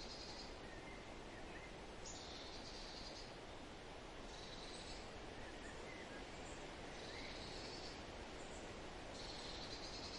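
Steady outdoor hiss with a high, buzzy trill of about a second repeating roughly every two seconds, about five times, and a few faint short chirps between them.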